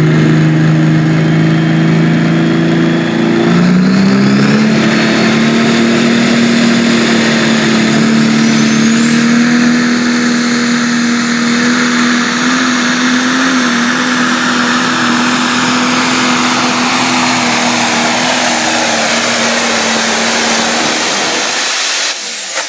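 Pro Stock pulling tractor's turbocharged diesel engine at full throttle down the track under sled load. Its pitch steps up a few seconds in and holds steady, a high whistle rises faintly about a third of the way through, and the engine falls off sharply about a second before the end as the pull finishes.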